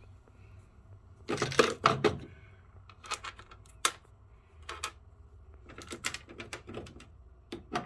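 Sharp clicks and taps of small screws and metal parts being handled while a furnace flame sensor is screwed back in, coming in irregular clusters, the busiest about a second and a half in.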